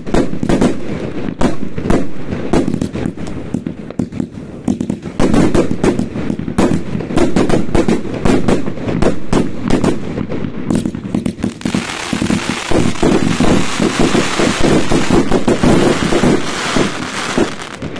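Fireworks going off in rapid, overlapping bangs and pops. About two-thirds of the way in, a dense hissing crackle joins and runs on under the bangs.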